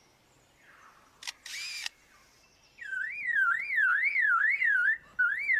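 A superb lyrebird mimicking man-made sounds: a click and a short whirring burst like a camera shutter and motor drive, then, from about three seconds in, a loud warbling car-alarm siren rising and falling a little over twice a second.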